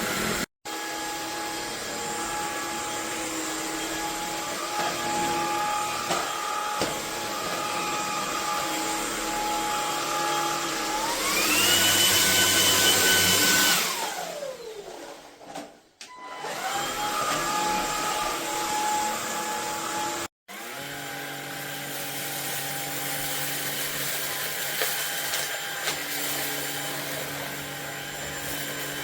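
Cordless stick vacuum's motor running with a steady whine. About eleven seconds in it switches to a higher power mode, rising in pitch and getting louder. Around fourteen seconds it winds down to a stop, then starts again and runs on. The sound cuts out abruptly twice.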